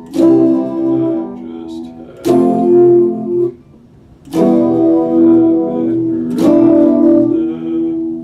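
Epiphone Les Paul Special II electric guitar played solo: chords strummed about every two seconds, each left to ring, with a short pause a little before the middle.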